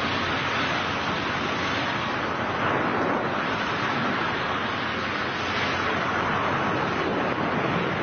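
Steady rush of air roaring past the microphone of a skydiver in freefall.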